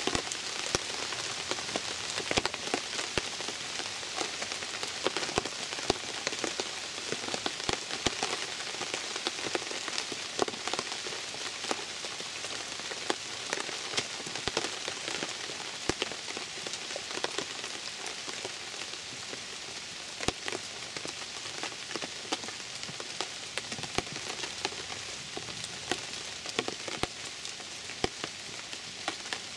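Steady rain: an even hiss sprinkled with frequent sharp ticks.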